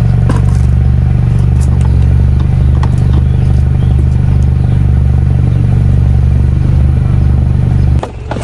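A large vehicle's engine idling close by: a loud, steady low rumble that drops away suddenly near the end.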